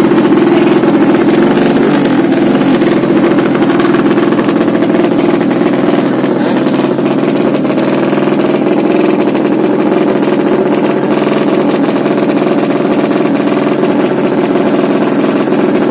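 200cc motorcycle engine idling steadily.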